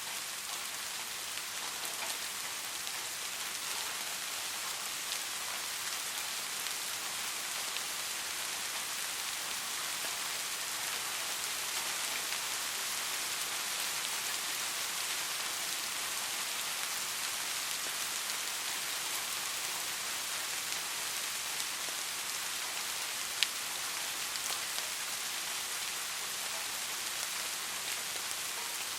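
Steady rain falling on a surface, an even hiss full of fine drop patter, with one sharper drop tick about 23 seconds in.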